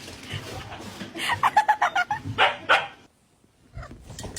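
A dog barking: a quick run of short yips, then two louder barks, before the sound cuts off suddenly.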